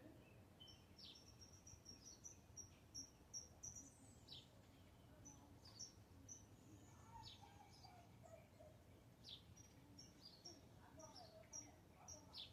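Birds chirping faintly: short high chirps repeated several times a second, with a lower run of falling notes about seven seconds in and again near the end.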